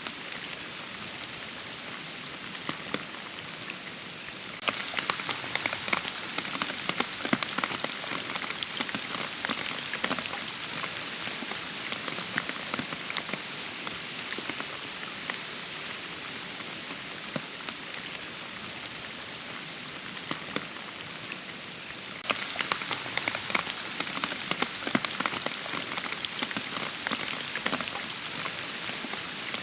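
Steady rain with a dense patter of individual drops. It turns suddenly heavier and crisper about five seconds in, and again about two-thirds of the way through.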